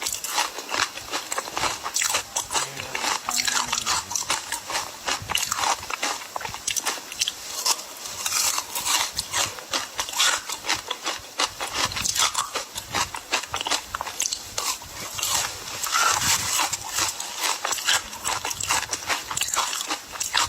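Ice being bitten and crunched in the mouth: a steady, dense run of crisp cracks, several a second.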